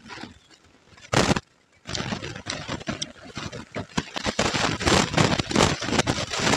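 Close-miked chewing of crisp puffed rice (muri) mixed with ghugni: dense crackling crunches that grow louder from about four seconds in, after a short loud burst about a second in.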